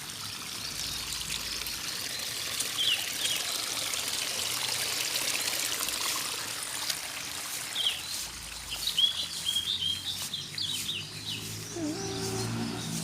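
Water trickling steadily, with short high chirps from small birds several times, and a chicken clucking near the end.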